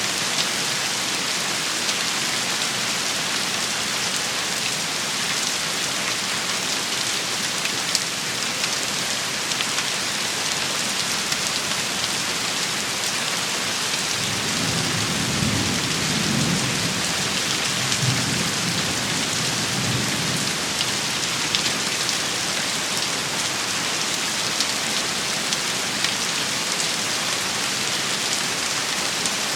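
Steady downpour of rain with fine pattering drops. A low roll of thunder rumbles for several seconds about halfway through.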